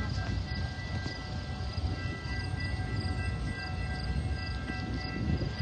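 CSX freight train passing: a steady low rumble of the train, with several steady high tones held over it.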